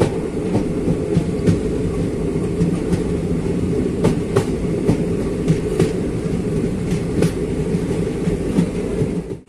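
Train running along the track, heard from on board: a steady rumble of wheels on rails with irregular sharp clicks. The sound cuts off suddenly near the end.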